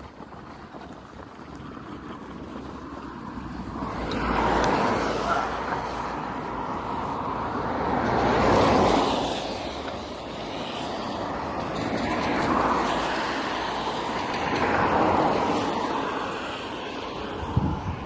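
Outdoor rushing noise, like road traffic or wind, swelling and fading about four times, with a sharp knock near the end.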